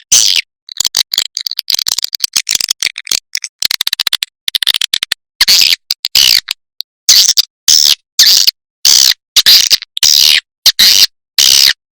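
Recorded swiftlet calls from a swiftlet lure track: loud, high-pitched twittering chirps and rapid clicks in short bursts separated by silent gaps. Such tracks are played to draw swiftlets in and get them to roost in a swiftlet house.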